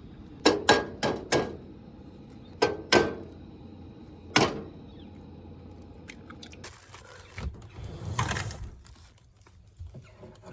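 Sharp clicks and taps of cooking gear as eggs are started on a camp stove: four quick clicks, then two, then a single one, followed by a short swell of noise a few seconds later.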